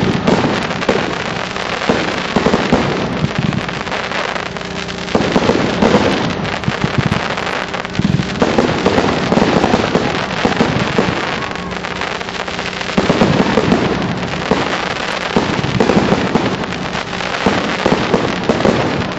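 Fireworks display: dense volleys of bangs and crackling, a fresh surge every three to four seconds.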